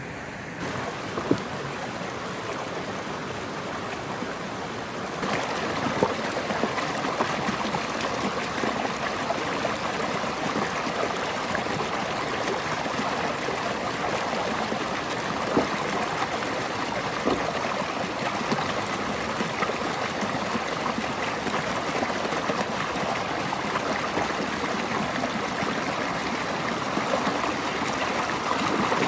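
Steady rush of flowing water from a stream or waterfall, becoming louder about five seconds in, with a few brief knocks.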